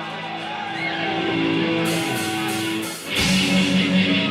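Live metal band: held electric guitar tones ring for about three seconds, then the full band comes in loud with distorted guitar and rapid cymbal strokes as the song starts.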